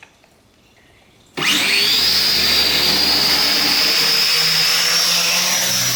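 Sky Viper v950 quadcopter's electric motors and propellers starting suddenly about a second and a half in, then running at a steady high whine that creeps slightly up in pitch as the drone takes off to hover.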